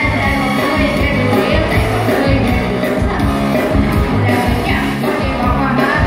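Amplified live music: a singer over a band with a steady, repeating bass line.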